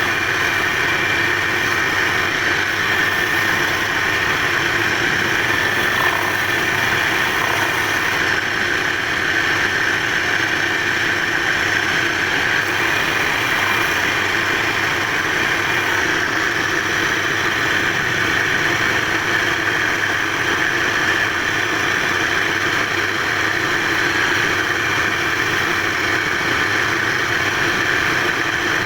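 Wood-turning lathe running steadily, with a continuous even machine hum and no breaks.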